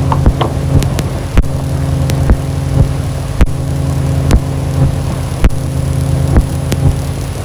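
Dark ambient noise music: a steady low droning hum of several held tones, broken by sharp crackling clicks at irregular intervals, about one a second.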